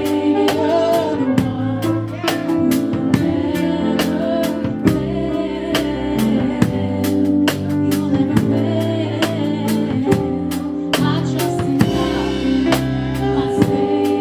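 Live gospel band music: a drum kit keeping a steady beat under sustained keyboard chords and bass.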